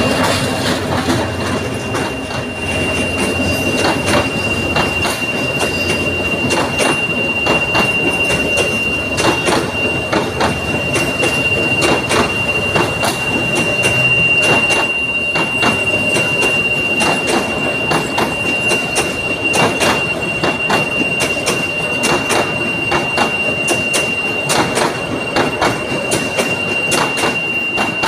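Train running on rails: a continuous rattle with irregular clicks and clatter from the wheels and cars, over a thin steady high whine.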